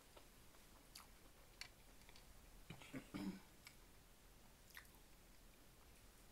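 Faint chewing of a mouthful of food, with a few soft, sharp clicks of a metal fork against the plate and a brief, slightly louder mouth sound about three seconds in.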